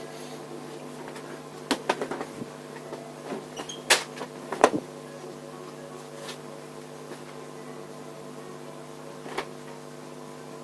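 A steady low electrical-sounding hum with sharp clicks and knocks of parts or tools being handled: a small cluster about two seconds in, two louder knocks around four seconds in, and one more near the end.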